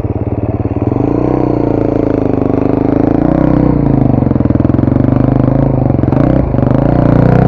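Off-road motorcycle engine running under load, its revs rising and falling several times with the throttle.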